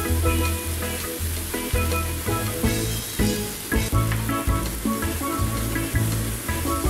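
Onions and kimchi sizzling in a hot wok as they are stir-fried with a wooden spatula, over background music with a steady bass beat.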